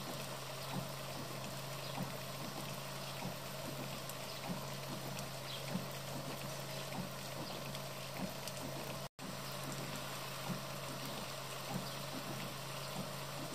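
Steady rush of rain and running water with scattered small drips ticking, over a steady low hum. The sound cuts out for an instant about nine seconds in.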